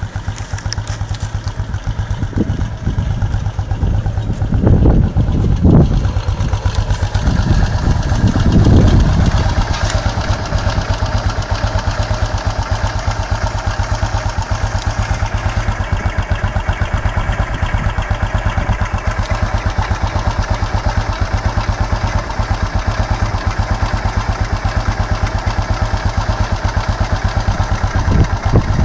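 Yamaha XT500's single-cylinder four-stroke engine running at low speed with an even, rapid beat, growing louder twice in the first ten seconds.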